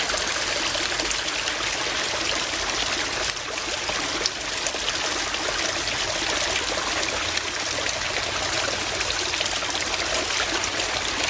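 A small stream of water running, a steady even rush with no break.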